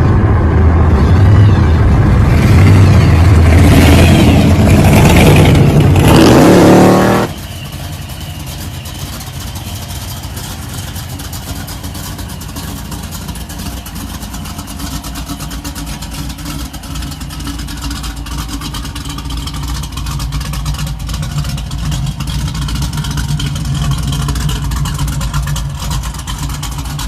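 Car engine revving loudly for about seven seconds, then cutting off suddenly to a quieter, steady low running sound that swells a little near the end.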